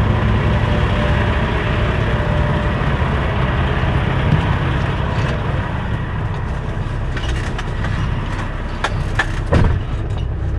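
Semi truck's diesel engine running steadily, with a few sharp clicks and knocks in the last few seconds.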